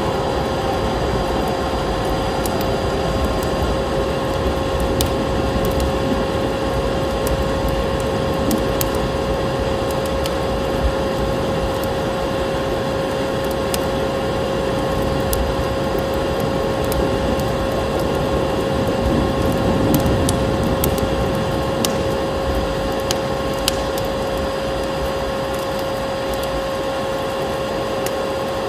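Vacuum cleaner running steadily with a constant whine, layered over the scattered sharp pops and crackles of a wood fire burning in a fireplace.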